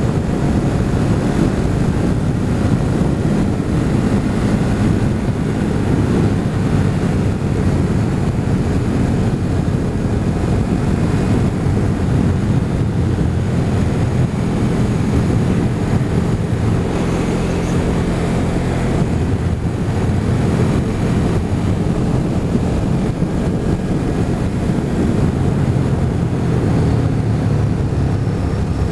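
Motorcycle being ridden at a steady cruising speed: a constant engine note with wind rushing over the microphone.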